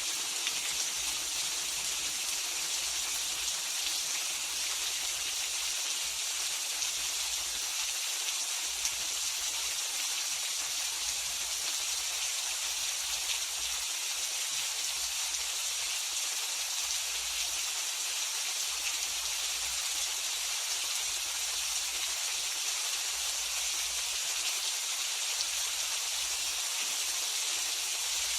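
Steady, even rain falling, a continuous hiss with no thunder heard.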